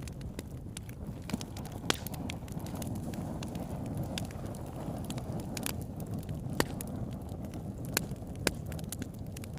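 Campfire burning: a steady low rumble of flames with irregular sharp crackles and pops of burning wood, a few louder snaps scattered through.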